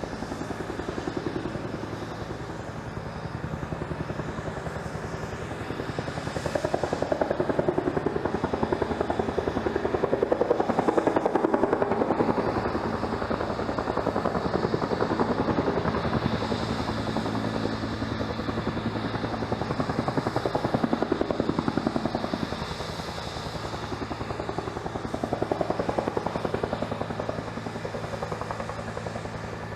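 Helicopter running, its rotor blades beating in a fast steady rhythm over steady engine tones. The sound swells and fades in loudness several times.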